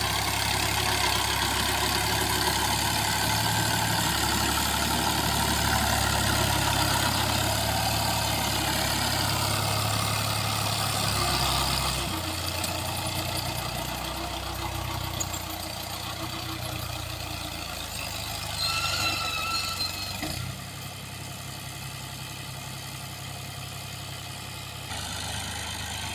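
Al-Ghazi tractor's diesel engine idling steadily on a test run. The engine gets quieter about halfway through and again near the end. A short high tone sounds about two-thirds of the way in.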